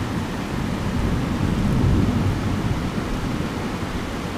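Heavy thunderstorm rain pouring steadily, with a low rumble of thunder that swells about a second in and slowly fades.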